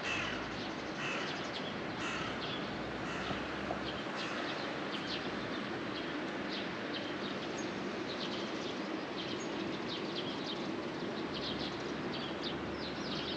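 Wild birds chirping and calling, many short high calls scattered throughout, over a steady background hiss.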